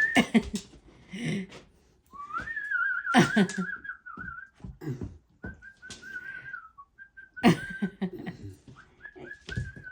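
Whistling in several short phrases of one high tone. The longest phrase warbles up and down, and a few sharp clicks fall between the phrases.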